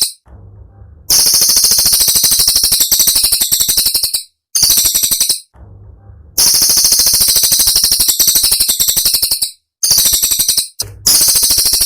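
Cililin songbird giving shrill, rapid-fire phrases of dense staccato notes, the fast 'tembakan' bursts sought for masteran. The bursts last about one to three seconds each, with short pauses between them.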